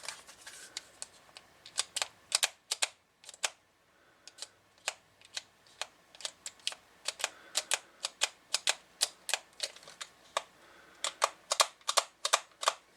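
Rapid, irregular sharp clicks, several a second, with a short lull a few seconds in.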